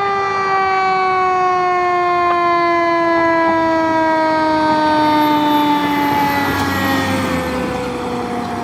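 Fire engine's siren sounding a long wail, one tone sliding slowly down in pitch over several seconds.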